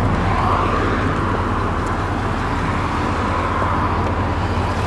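The V8 of a 2007 Chevrolet Corvette C6, fitted with long-tube headers and a Corsa exhaust, idling steadily with a low, even rumble.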